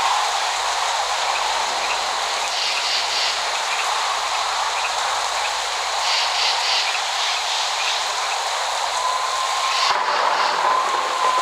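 Steady rain falling, a dense even hiss with no thunder. A thin high whistling tone rises in near the end and holds for about two seconds.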